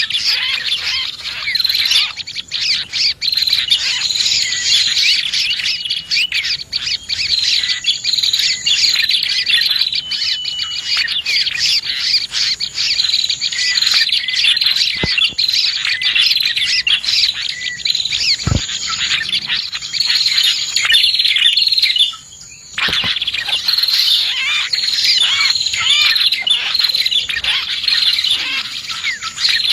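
A dense chorus of small birds, prenjak among them, chirping and twittering in rapid, overlapping high-pitched calls. The chorus drops out briefly just after the twenty-second mark, then resumes.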